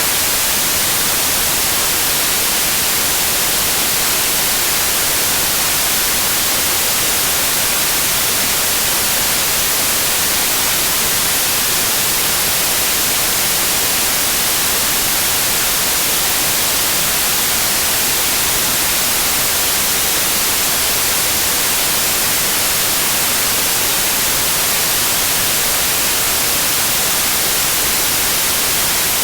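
Steady synthetic white noise, an even hiss without change.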